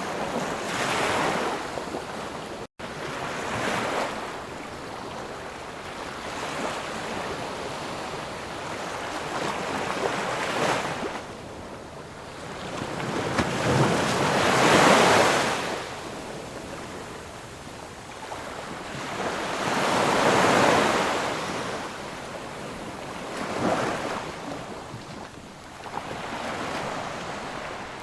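Sea surf: waves breaking and washing up the shore, swelling and fading every few seconds, with the biggest swells about halfway through. A split-second dropout cuts the sound near the start.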